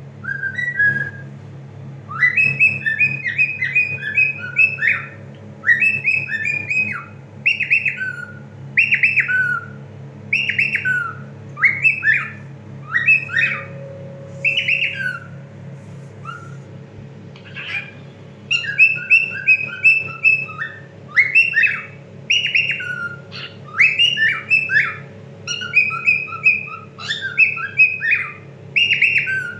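Cockatiel singing, a run of short whistled phrases with falling notes repeated over and over, with a pause of a few seconds midway. It is singing to catch the attention of a hen cockatiel.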